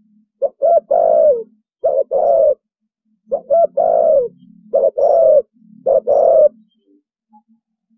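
Spotted dove cooing in the 'thổ bầu' style: two phrases a few seconds apart, each a couple of quick short notes followed by longer, downward-bending coos.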